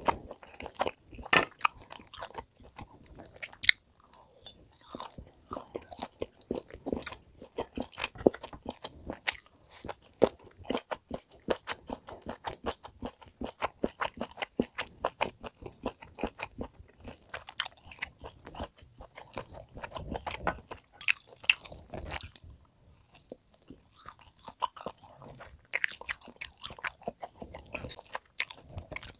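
Close-miked chewing of thick slices of top blade steak, with wet, irregular mouth sounds, and a few sharp clicks here and there.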